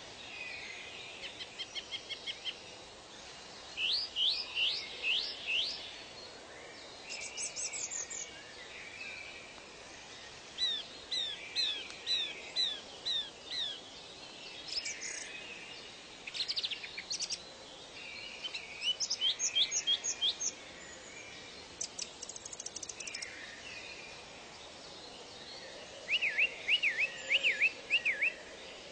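Several birds singing and calling in turn, each phrase a quick run of repeated sweeping notes, over a steady faint background hiss.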